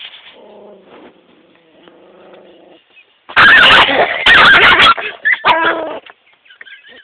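Small dog growling low for a couple of seconds, then two very loud bursts of harsh barking about three seconds in, followed by a shorter yip: a defensive dog resisting being grabbed.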